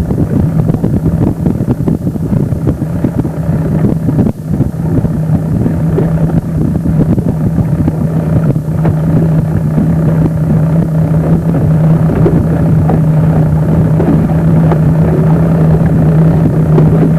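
Motorboat engine running at a steady speed, with wind buffeting the microphone. The engine tone grows a little stronger after a brief dip about four seconds in.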